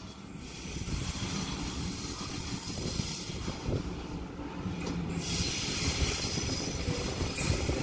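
Electric suburban passenger train running into the station platform, its rumble and rail noise growing steadily louder as it nears, with a thin high whine in the second half.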